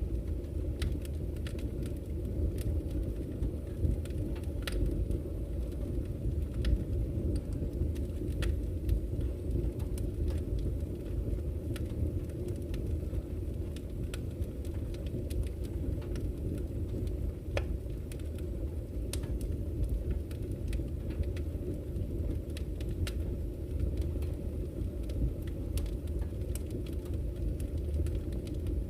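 Campfire crackling, with frequent sharp snaps and pops at irregular intervals, over the steady low rush of a flowing river.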